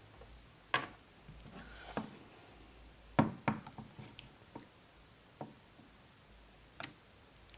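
A few scattered light taps and knocks from small objects being handled, probably the slime container and toy figures, with quiet stretches in between.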